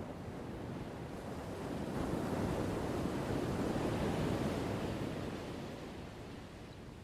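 One ocean wave washing in: a rush of surf noise that builds over about two seconds, holds, then fades away near the end.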